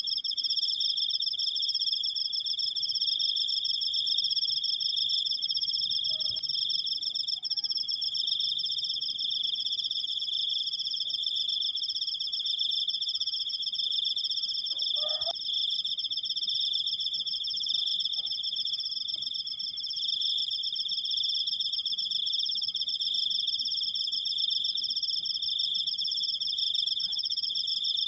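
Cricket chirping in one long, unbroken, high-pitched trill. A brief faint call is heard twice, about 6 and 15 seconds in.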